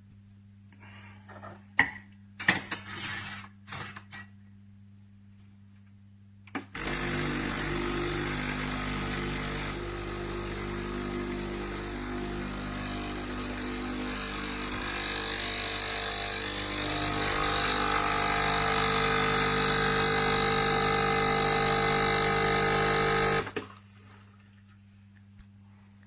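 A few clicks and knocks, then the Sage Barista Express espresso machine runs steadily for about seventeen seconds. It gets louder and changes pitch partway through, then cuts off sharply.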